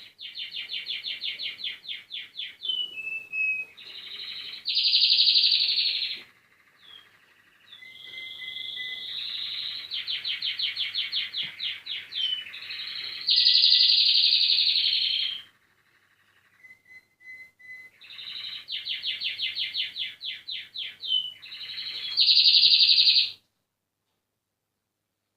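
Male domestic canaries singing: three long song phrases of rapid repeated trilled notes, each ending in a loud, high roll, the last one stopping about two seconds before the end.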